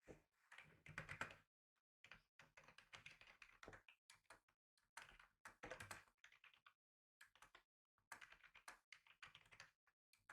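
Typing on a computer keyboard in quick bursts of key clicks, with short pauses between the runs.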